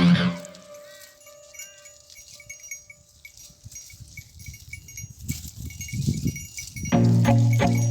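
Small bells worn by goats tinkling irregularly, with soft low thumps underneath. Background music fades out at the start and comes back in near the end.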